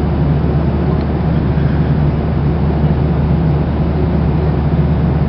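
Steady drone of an airliner cabin: a constant low hum with an even hiss above it.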